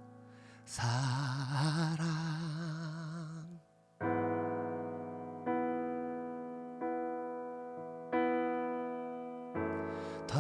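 Worship singing with keyboard accompaniment: a voice holds the word "사랑" ("love") with vibrato for a couple of seconds, then the keyboard plays sustained chords alone, struck five times about a second and a half apart, each fading away.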